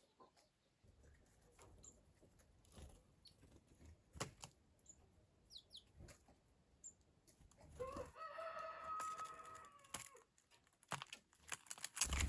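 A rooster crows once, a pitched call of about two seconds starting about eight seconds in, with scattered short knocks and clicks around it.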